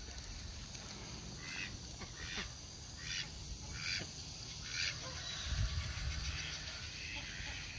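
A series of short bird calls, about one a second for a few seconds, over a steady low rumble on the microphone.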